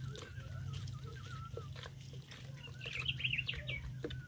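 Birds calling: a wavering whistled call for the first second or so, then a short burst of higher, quicker chirps about three seconds in. Under them are light clicks from a wooden spoon mashing avocado in a plastic jug, and a steady low hum.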